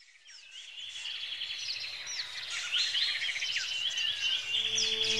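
Birds chirping and trilling, many quick rising and falling calls overlapping, fading in from silence. Soft music with low held notes comes in near the end.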